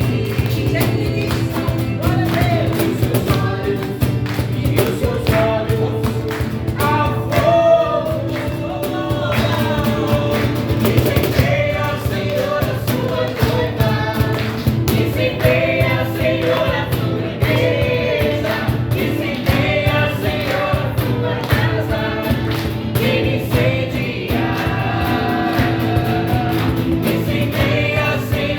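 A choir singing a gospel worship song over a band with a steady beat.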